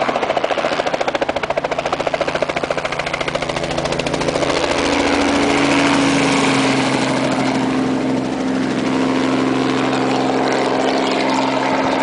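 Helicopter flying, its rotor chopping fast and evenly for the first few seconds, then settling into a steadier engine and rotor hum with a held tone.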